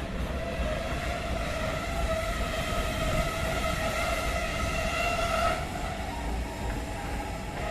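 Train running with a low rumble and a long, steady high tone that lasts about five seconds and then fades.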